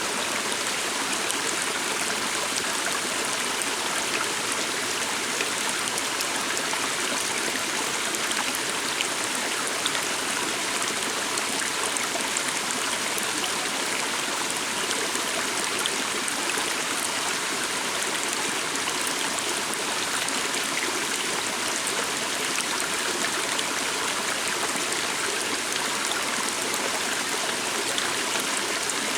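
Steady rush and babble of a flowing stream, even throughout with no change in level.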